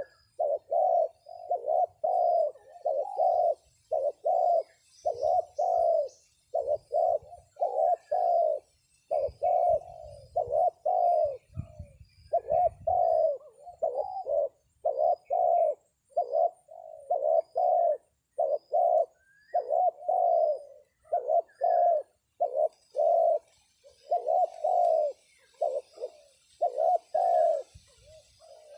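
Spotted doves cooing over and over, phrase after phrase with only short gaps: the lure call used to draw wild doves down to the trap.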